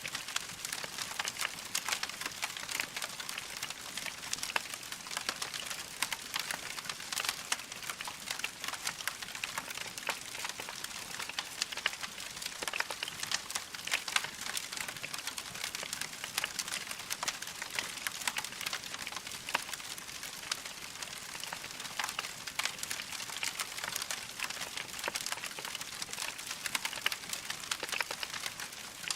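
Wood fire in a fireplace crackling steadily, a dense stream of small pops and snaps from burning logs over a soft hiss.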